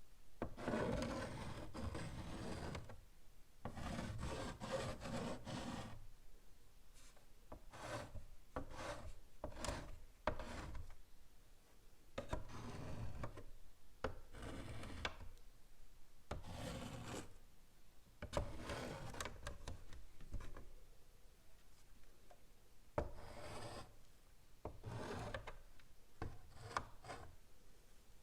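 Chalk writing on a blackboard: scratchy strokes in bursts from a fraction of a second to about two seconds long, with sharp taps of the chalk among them and short pauses between.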